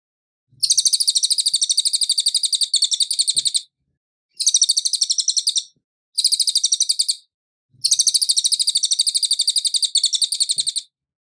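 A cililin singing: four bursts of rapid, evenly repeated high chirping notes, the first and last about three seconds long and two shorter ones between, with brief gaps.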